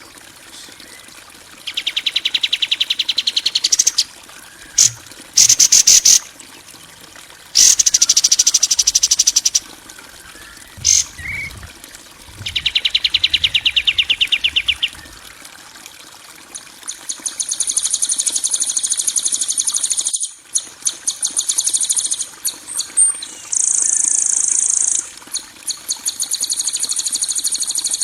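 Recorded songbird calls of the harsh, rough kind used to train caged birds: rapid, high, rattling trills. They come in bursts of one to three seconds with short gaps between them.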